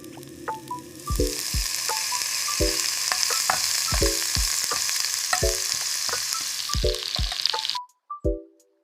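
Food sizzling and frying in a hot pan, a dense steady hiss that starts about a second in and cuts off suddenly near the end. A plucked, rhythmic background tune plays throughout.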